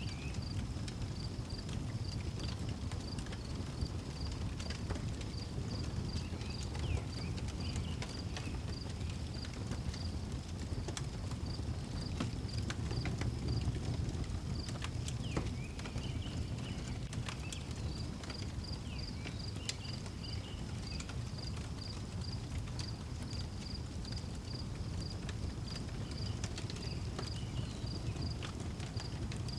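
Wood fire crackling and popping over a low rumble of flames. Crickets chirp in a steady, even pulse throughout, and a few short higher calls rise now and then.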